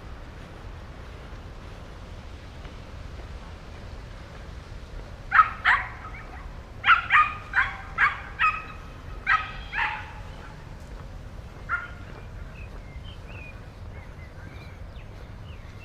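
A small dog barking: a quick run of about nine sharp barks, then one more bark a couple of seconds later, over a steady low hum of the city and park.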